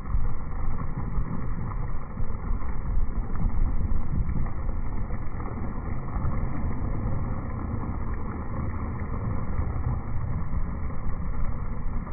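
Strong typhoon wind buffeting the microphone: a low rumbling noise that surges and eases.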